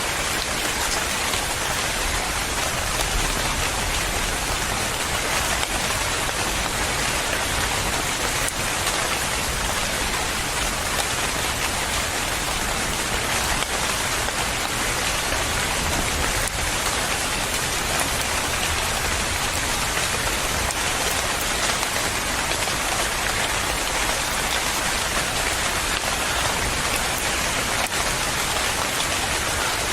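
Steady rain falling and pattering on a surface, an even hiss with no breaks.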